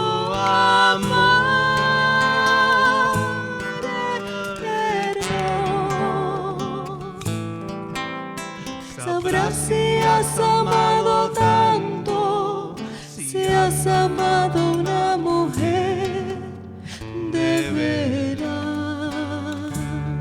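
Live Spanish-language love song: a voice sings long held notes with wide vibrato over acoustic guitar accompaniment, pausing briefly between phrases.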